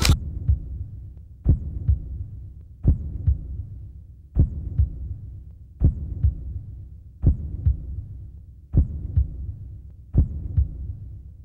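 Slow heartbeat sound effect: a pair of low thuds, lub-dub, repeating evenly about every one and a half seconds over a low hum.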